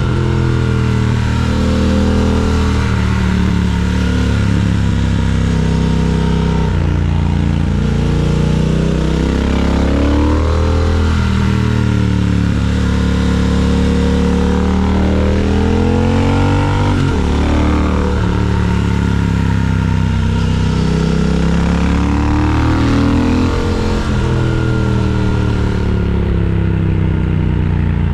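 Triumph Speed Twin 1200's 1200 cc parallel-twin engine running loud and continuously, its engine speed rising and falling over and over every few seconds as the throttle is opened and closed.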